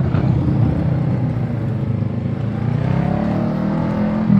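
Motorcycle engine running on the road, its pitch rising over the last second or so as it accelerates.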